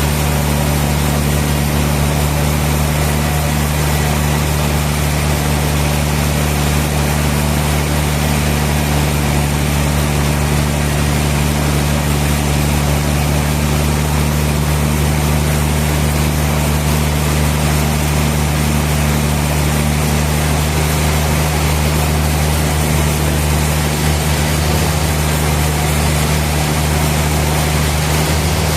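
Sawmill machinery running steadily: a constant low motor hum with an even hiss over it.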